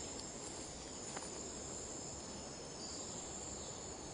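Jungle insects droning steadily in one continuous high-pitched tone, with a single faint click about a second in.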